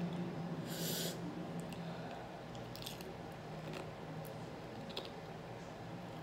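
Close-miked eating: a crisp, crunchy bite about a second in, then quieter chewing with a few small wet clicks.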